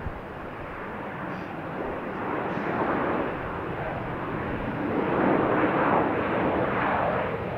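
Jet airliner flying past, its engine noise swelling to a loud rushing roar that peaks in the second half.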